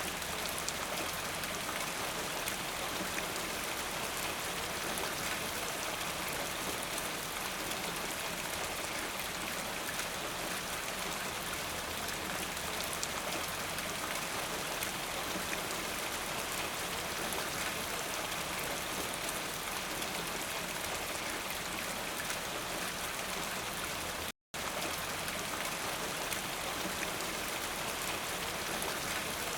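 Steady rain falling, an even hiss of many drops pattering. About three-quarters of the way through it cuts out to silence for a fraction of a second, then resumes unchanged.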